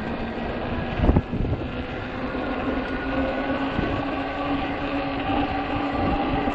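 Ecotric 48 V fat-tire e-bike riding over rough, crunchy snow: a steady motor whine that slowly rises in pitch over the rumble of the fat tires, with a single jolt about a second in.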